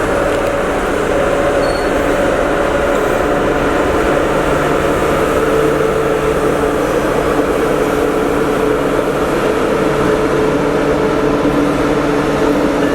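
Train running steadily, a continuous loud hum with a few held tones that shift slightly in pitch partway through.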